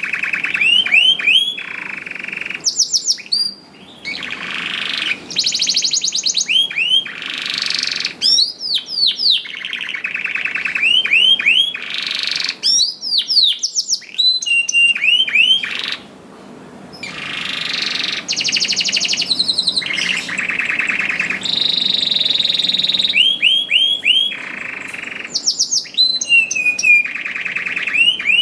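Domestic canary singing a long, loud song of rapid rolling trills and fast repeated notes, broken by quick down-sweeping whistled notes, with short pauses about 4 and 16 seconds in.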